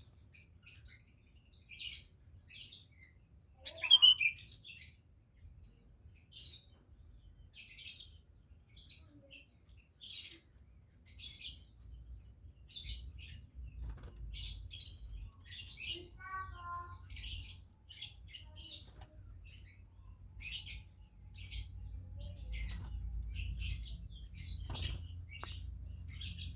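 Sooty-headed bulbul chirping in its cage: a steady run of short, high chirps, with one loud call sliding down in pitch about four seconds in and a few lower notes around the middle.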